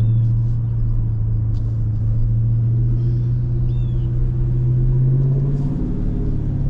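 Dodge Scat Pack's 6.4-litre HEMI V8 with its mid-muffler deleted, cruising with a steady low exhaust drone that rises slightly in pitch about five seconds in as the revs climb.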